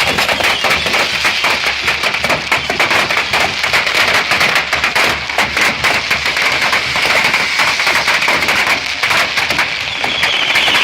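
Fireworks crackling rapidly and continuously over a steady high-pitched hiss, which grows stronger near the end.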